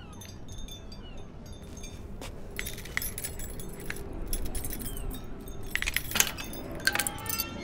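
A bunch of keys jangling and clinking as a key is worked into the lock of a barred metal security gate. The clinks come in scattered bursts and are loudest in two clusters about six and seven seconds in.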